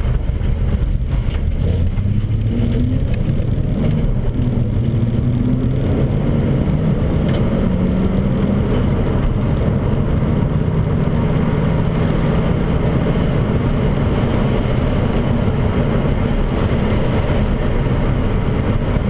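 BMW 540's V8 engine heard from inside the cabin while driving, its note rising over the first several seconds as the car accelerates and then holding steady at a cruise, over continuous tyre and road noise from the wet road.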